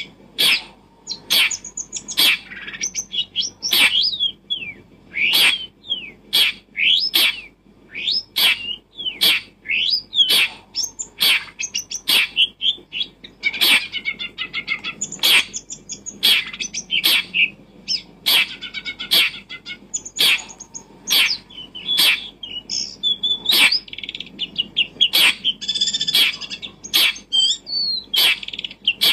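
Birds chirping and calling in quick short notes, with sharp clicks about once a second throughout.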